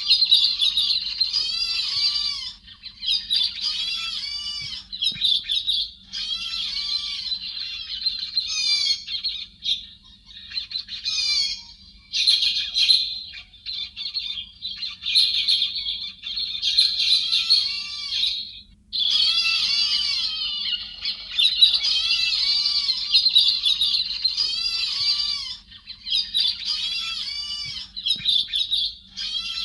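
Recorded calls of the chim héc xoan, a Vietnamese thrush: dense, overlapping, fast chattering and squawking notes, pausing briefly about a third of the way in and again just past halfway, over a faint steady hum.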